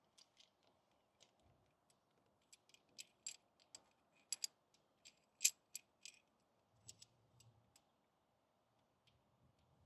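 Faint metallic clicks and clinks of a brake caliper piston wind-back tool and its two-pin adaptor being handled and fitted. The clinks come in a cluster through the middle, with the sharpest one about halfway through.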